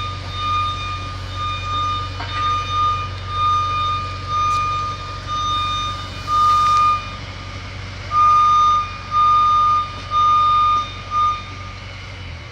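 Backup alarm of a piece of demolition equipment beeping steadily, about one beep a second, growing louder in the second half and stopping about a second before the end, over the machine's engine running low.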